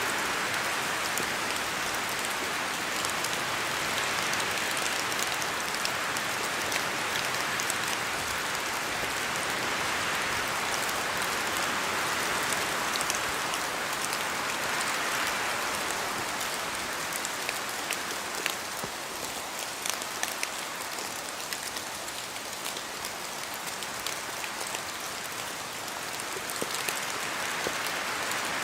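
Steady rain falling through forest trees, with drops from the leaves ticking through it. The rain swells and eases every several seconds, and it is a little quieter for a stretch past the middle.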